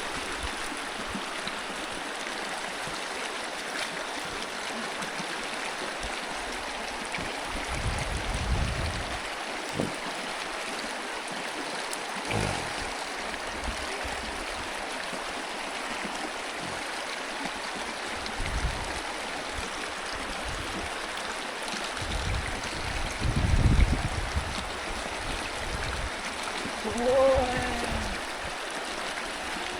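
Small creek water running steadily, with a few low thumps and a short pitched sound near the end.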